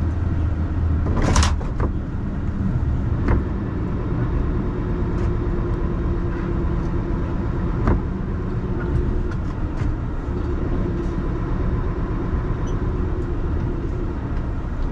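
Scania skip lorry's diesel engine running with a steady low rumble, heard from inside the cab as the lorry creeps down a snowy hill. A few sharp knocks sound over it, the loudest about a second and a half in.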